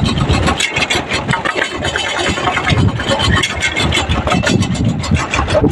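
Sanedo (home-built jugaad farm tractor) engine running with a rapid, even beat.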